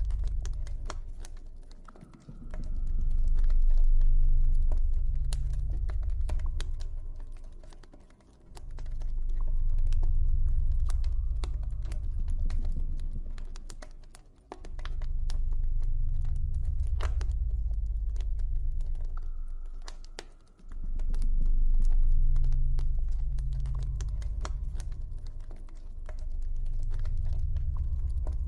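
Campfire crackling with irregular sharp pops, over a deep ambient drone that swells and fades away about every six seconds.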